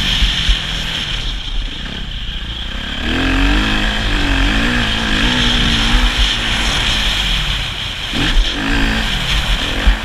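Motocross bike engine revving up and down as the rider works the throttle, with a quick rise and drop in pitch near the end.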